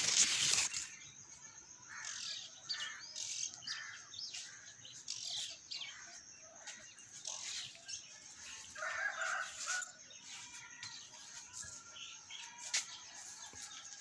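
Small birds chirping in short, scattered calls, with a fuller, lower call about two-thirds of the way through. A brief rustling noise at the very start is the loudest sound.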